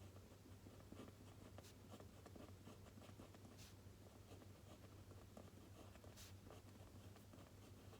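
Faint scratching of writing on paper, irregular small strokes with a couple of brief louder scrapes, over a low steady hum.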